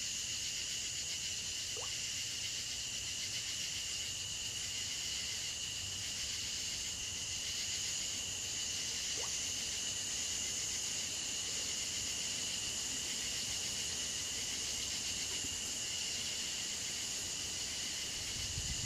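Steady, unbroken chorus of singing insects, a continuous high-pitched drone.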